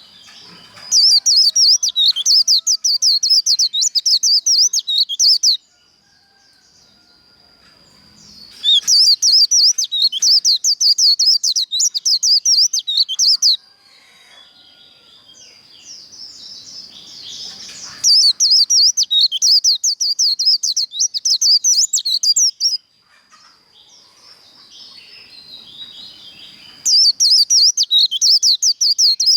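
White-eye singing its rapid, high-pitched 'líu' contest song in four bursts of about four to five seconds each, separated by quieter pauses, over a faint steady high tone.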